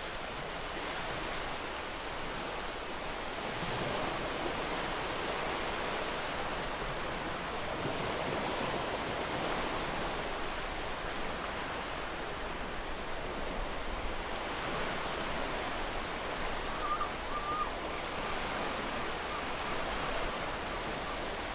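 Ocean surf washing onto a shore: a steady, even hiss of breaking waves that swells and eases slowly every few seconds.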